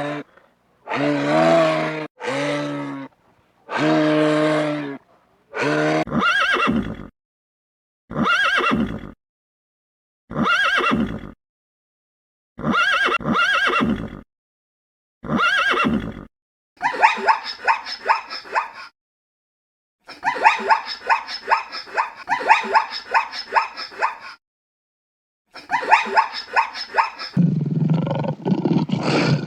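A string of animal calls cut together from different clips: three long, low, steady calls, then a run of shorter, higher calls about two seconds apart, then two runs of rapid pulsed calls. A deep, low call starts near the end.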